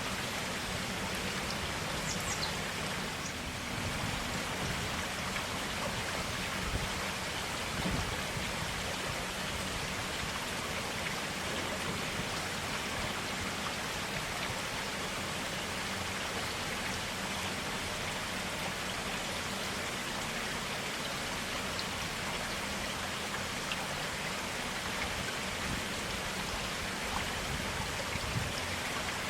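Forest stream water running steadily over rocks, an even splashing rush with a few small drips.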